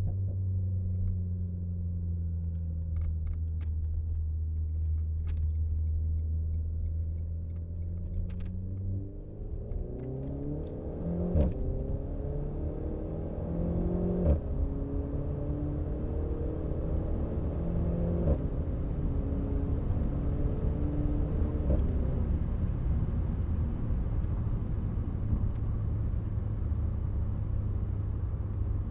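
Renault Megane RS Trophy's turbocharged four-cylinder engine, heard from the driver's seat, running steadily at low revs, then accelerating about nine seconds in: its pitch climbs and drops back at each of about four upshifts, each with a short crack, before it settles to a steady cruise.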